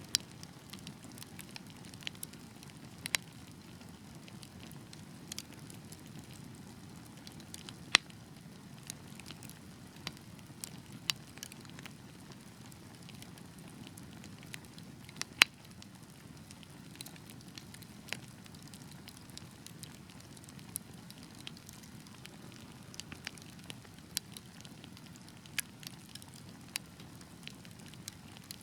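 Wood fire burning with a steady low rumble of flame and frequent irregular crackles, with a few sharp, louder pops from the burning logs.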